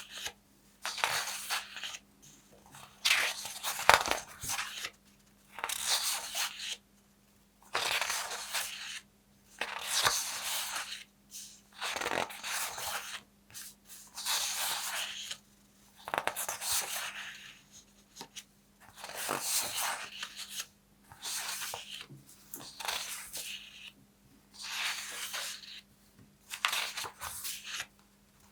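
Paper being worked in repeated short, crisp strokes, each about a second long with brief pauses between, over a faint steady hum.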